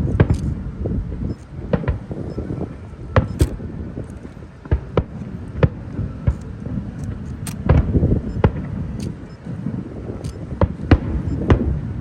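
Fireworks going off: a string of sharp bangs at irregular intervals over a continuous low rumble.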